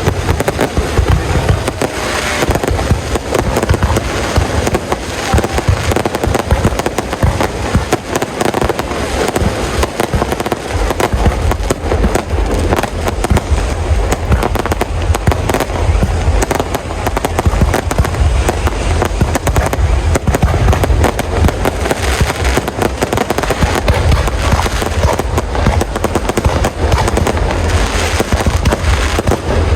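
Fireworks display: a dense, continuous run of bangs and crackles with deep low booms.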